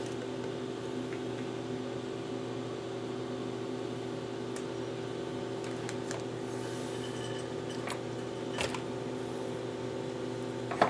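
A steady machine hum made of several fixed tones, with a few faint clicks and knocks, the last and loudest near the end.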